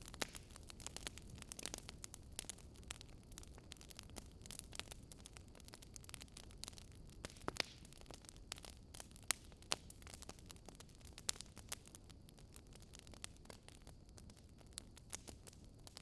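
Wood fire crackling in a fireplace: quiet, irregular snaps and pops, a few sharper ones in the second half, over a low steady rumble of burning.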